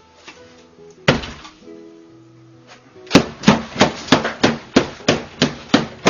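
Background music with a single loud thunk about a second in, then a quick, regular series of about nine thumps, roughly three a second, starting about three seconds in.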